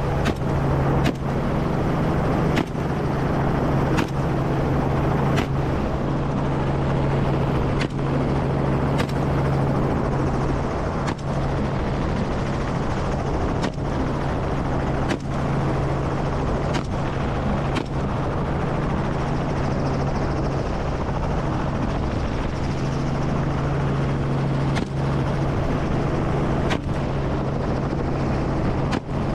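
Helicopter in flight, its engine and rotor giving a steady loud drone with a constant low hum.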